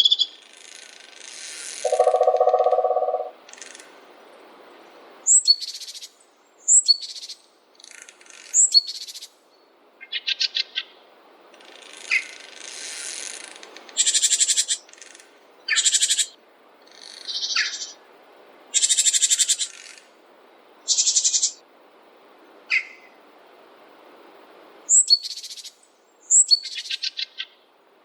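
Wild birds calling and singing: a string of short chirps, quick trills and rapid twittering calls, with one lower, longer call about two seconds in, over a faint steady hiss.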